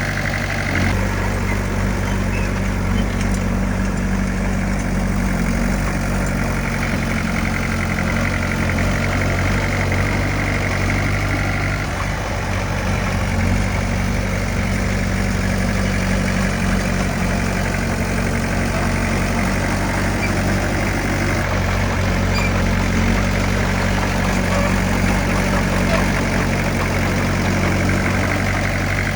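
Diesel engine of heavy earthmoving equipment running steadily at a constant low pitch, with no revving or stops.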